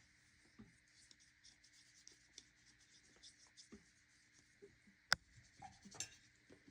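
Faint soft strokes of a wet watercolor paintbrush on paper, with a sharp click about five seconds in.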